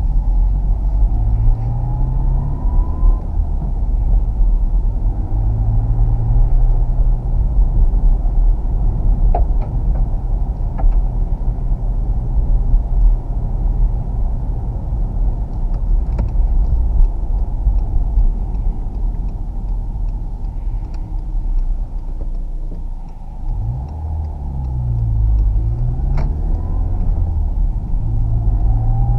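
Ford KA+'s 1.2-litre four-cylinder petrol engine heard from inside the cabin while driving, over low road rumble. The revs climb and drop several times as the car pulls away and changes speed, with a rising whine under acceleration at the start and again near the end.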